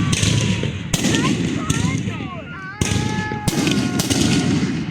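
Fireworks going off: several sharp bangs at uneven intervals over a continuous crackling rumble, with short high whistling tones sliding up and down between the bangs.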